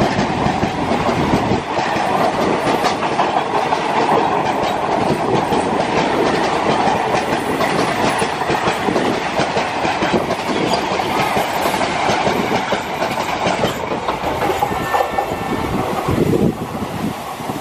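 Two passenger trains running side by side on adjacent tracks, heard from aboard the overtaking one: a loud, steady rush of wheels and coaches with continual clickety-clack over the rail joints. The noise changes about three-quarters of the way through and drops suddenly near the end.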